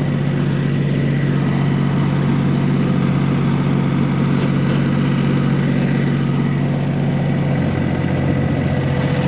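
1985 John Deere 1050 tractor's three-cylinder diesel engine running steadily at low engine speed.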